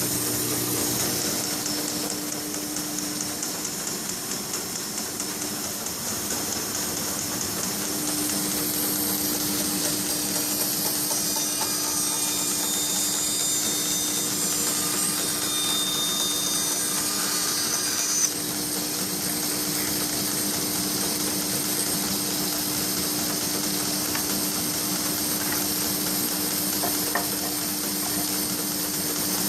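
Restored 1910 American 38-inch bandsaw running steadily, with a constant hum. A single sharp knock about 18 seconds in.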